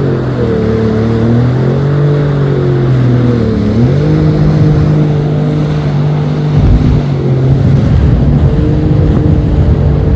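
Jet ski engine running steadily under throttle. Its pitch steps up twice, about two and four seconds in.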